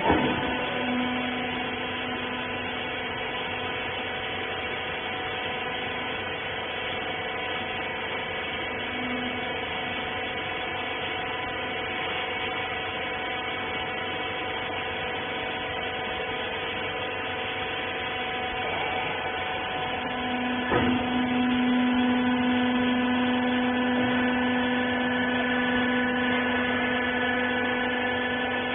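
Rag baler's electric motor and hydraulic pump running with a steady pitched hum, starting with a click. About 21 seconds in there is a knock and the hum gets louder.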